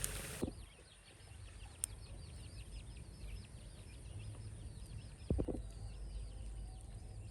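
Sizzling frying that cuts off abruptly just after the start, then birds chirping rapidly, about four or five short high descending chirps a second. A brief lower call or knock stands out about five seconds in.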